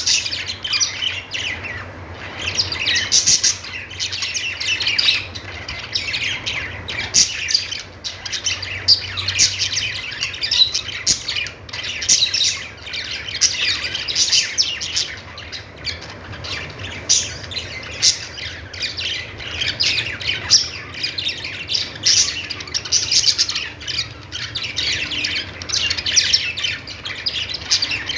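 Budgerigars chattering: a dense, unbroken stream of quick high chirps and warbles with short sharp clicks mixed in.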